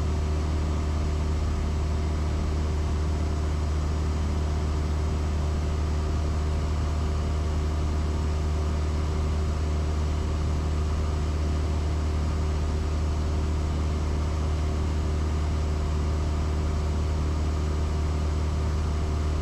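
Cessna 172S Skyhawk's four-cylinder Lycoming engine and propeller droning steadily in flight, heard from inside the cabin. It is a deep, even hum with no change in pitch or loudness.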